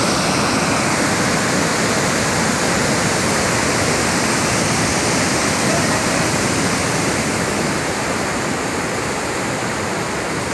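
Chitrakoot Falls on the Indravati River in full monsoon flood: a loud, steady rush of falling water.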